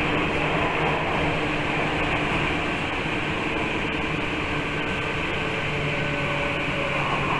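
Tokyu 8500 series commuter train running, heard from inside the passenger car: a steady rumble of wheels and running gear with faint humming tones under it.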